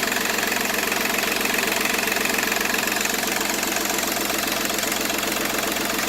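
Seat Ibiza 1.4 TDI three-cylinder turbo diesel engine idling steadily. At 205,000 km it runs like a new engine.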